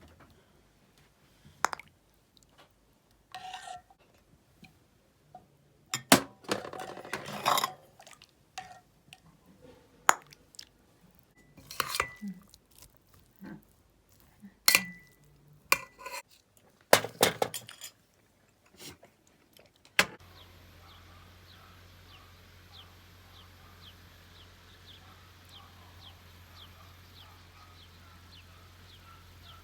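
Dishes, pots and utensils clinking and knocking during kitchen cooking work, with separate sharp clinks and a short rustling, scraping stretch. About two-thirds of the way through, this gives way to a steady low hum and a short high chirp repeating about twice a second.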